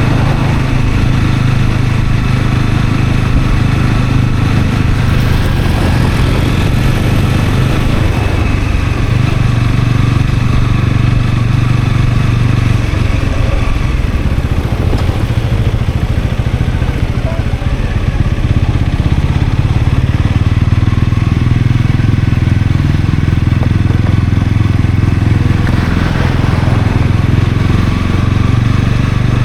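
Honda CL250 motorcycle engine running under way on the road. The engine note eases off partway through, then picks up again.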